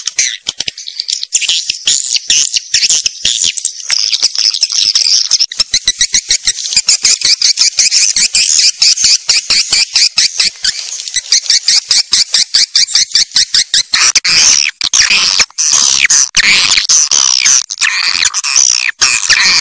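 Swiftlet calls: a dense, rapid chattering of high chirps repeated several times a second, turning about two thirds of the way through into a fuller, lower twittering. This is the kind of swiftlet call recording played as a lure to attract swiftlets into a nesting house.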